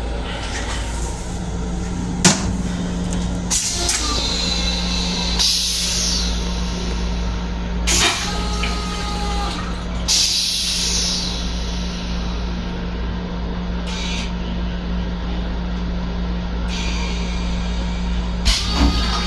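Steady low rumble and hum of an M7 electric railcar heard inside its small restroom. Short hissing sounds come every few seconds, with a couple of sharp clicks, one about two seconds in and one near the end.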